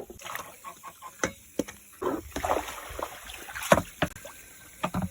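Containers being handled and emptied: a string of separate knocks and short splashy rushes, like water being tipped out.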